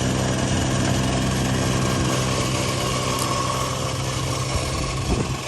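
Snow Joe Ion 100-volt 24-inch two-stage electric snowblower running steadily under load in deep snow, a constant hum of its electric motor and spinning auger.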